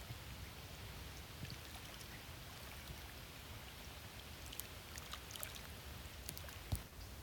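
Faint, steady outdoor background hiss with a low rumble, scattered light ticks in the second half, and one sharp thump near the end.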